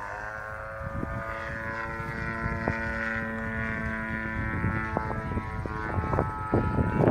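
Two-stroke DA70 twin-cylinder petrol engine of a large RC aerobatic plane running in flight, its note rising slightly in the first second and then holding steady. A few gusts of wind hit the microphone near the end.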